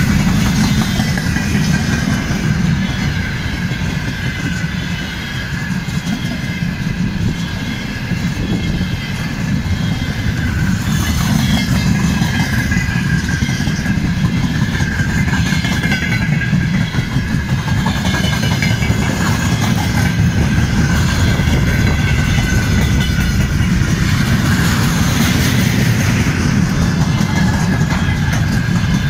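Freight train's wagons rolling past at speed: a steady heavy rumble of wheels on the rails with clacking at the rail joints, and a steady high ringing over it.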